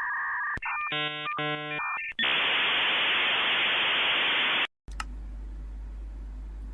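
Dial-up modem connection sound effect: steady tones, then chopped buzzy tones, then a loud hiss that cuts off suddenly. A low electrical hum follows.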